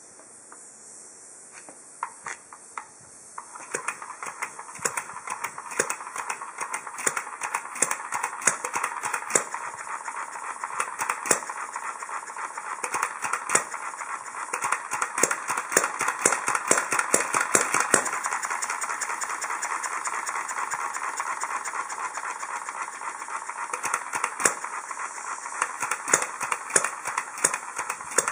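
Hit-and-miss engine running, with irregularly spaced sharp bangs over a steady clattering of clicks. The sound steps up in level about three and a half seconds in and carries on.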